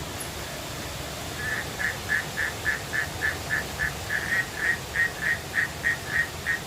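An animal calling a fast run of short, same-pitched notes, about four a second, starting about a second and a half in and going on for some five seconds, over the steady rush of flowing water.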